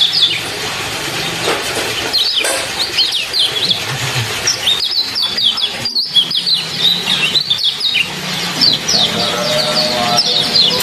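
Small songbird chirping in quick, high runs of short sweeping notes, over a steady trickle of running water.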